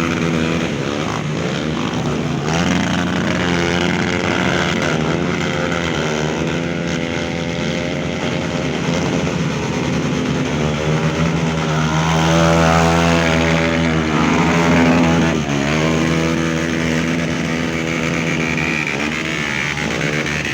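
Several off-road trail motorcycle engines running together, one holding a steady pitch while others rev up and down repeatedly, as bikes work through mud.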